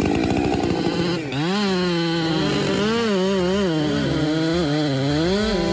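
Chainsaw engine running at high revs, its pitch dipping and rising several times as it works, then holding steady near the end.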